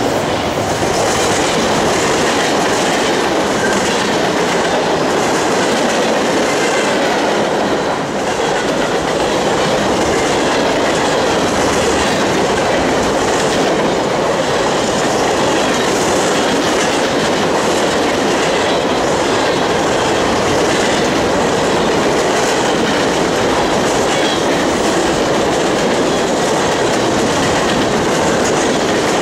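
Freight train's autorack cars and boxcars rolling past close by: a loud, steady rumble and rattle of steel wheels on the rails.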